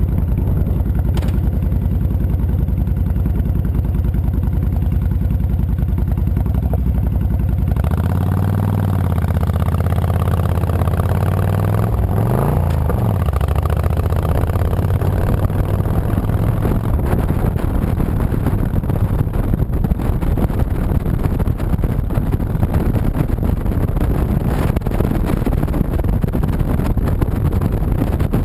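2007 Honda VTX 1300C V-twin engine running steadily at low revs, then revving as the motorcycle pulls away about eight seconds in, its pitch rising and falling. Wind and road noise take over as it gathers speed.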